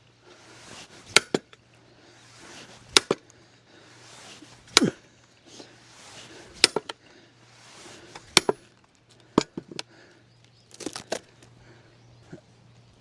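Axe splitting firewood: sharp chopping strikes into wood roughly every two seconds, then a few lighter knocks near the end.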